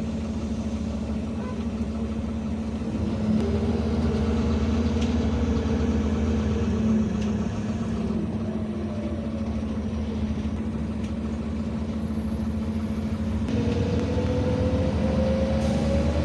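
City bus engine running steadily, heard from inside the passenger cabin, with a whine that rises gradually near the end as the bus speeds up.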